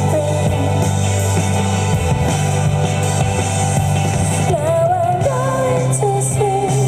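Indie rock band playing live over a steady bass line, with a sung vocal line coming in about four and a half seconds in.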